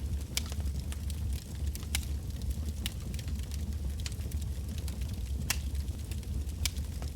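Wood bonfire burning with a steady low rumble of flame. Sharp, irregular crackles and pops of burning logs come one or two a second.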